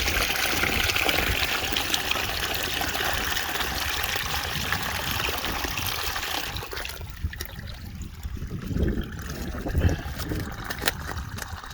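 Water from a sump pump discharge drain rushing and trickling steadily, then falling away sharply about seven seconds in, leaving a low rumble and a few small knocks.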